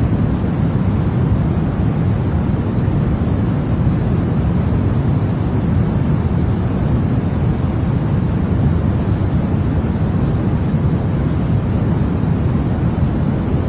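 Continuous white noise of the kind played for baby sleep: an even, unchanging rushing hiss, heavier in the low end than in the treble.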